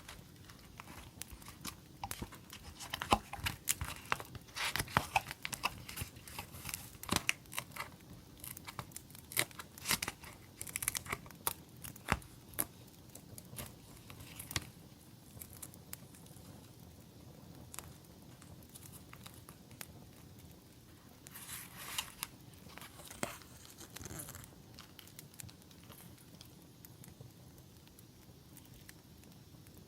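Paper and packaging being crinkled, torn open and handled, in a busy run of sharp rustles and crackles through the first half and a shorter cluster about two-thirds in, then quiet.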